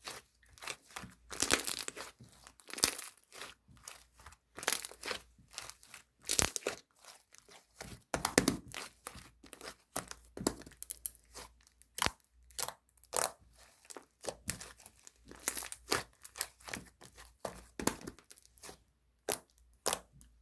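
Irregular crinkling and crackling, short sharp crackles coming a few times a second in uneven clusters, like crinkly material being crumpled or torn by hand.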